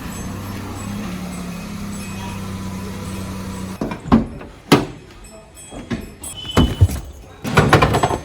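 Powertrac two-wheel-drive tractor's diesel engine running steadily; the sound cuts off abruptly a little under four seconds in. A string of loud thumps and knocks follows.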